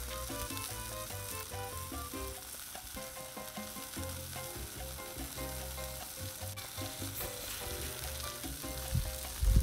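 Beef and ground-chicken burger patties sizzling on a Blackstone flat-top griddle, a steady frying hiss, under quiet background music with a melody and bass line.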